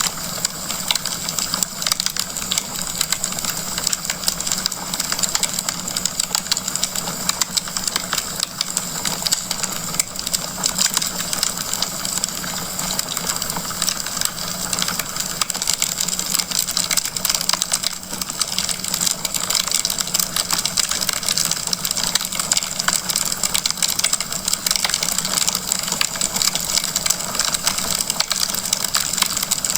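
Wood fire in a fireplace crackling: a dense, steady run of small pops and snaps over a soft hiss.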